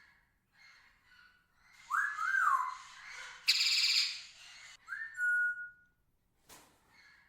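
Parrot calls: a whistled note that rises and falls twice, then a loud harsh screech lasting under a second, then a clear whistle that drops and holds steady, with faint chirps between.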